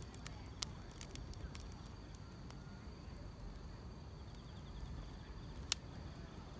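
Wood fire crackling, with scattered sharp pops, the loudest about six seconds in, over a low rumble, while grass insects keep up a faint steady high chirring.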